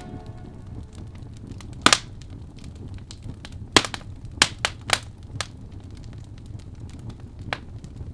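Wood fire crackling, with irregular sharp pops over a steady low rumble of burning, loudest about two seconds in and from about four to five seconds in.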